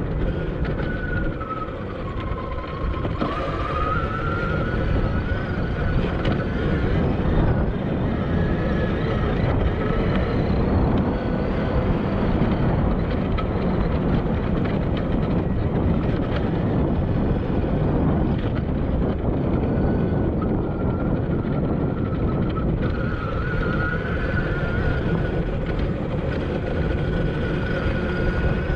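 Admitjet Armor electric dirt bike's motor whining, its pitch rising and falling with the throttle, under heavy wind buffeting on the camera microphone.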